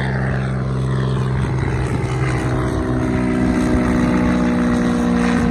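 Small propeller airplane flying over, its piston engine and propeller making a steady drone that grows slightly louder, the pitch shifting about midway.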